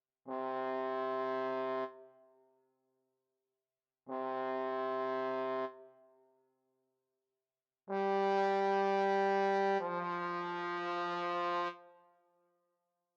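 A trombone playing long held notes: two separate sustained notes with a pause between, then a louder pair played joined together, the second one lower, each note ringing off briefly in the room.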